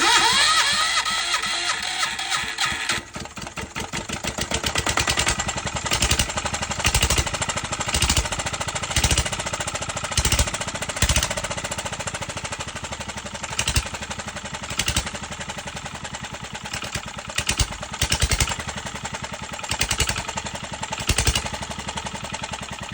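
Engine starting: a rising whine over the first few seconds as it catches, then running unevenly, with louder pulses about once a second over a fast steady firing.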